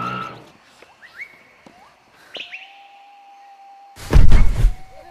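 Birds chirping, with short rising calls and a long steady whistled note. About four seconds in comes a loud, low thump lasting under a second, louder than anything else.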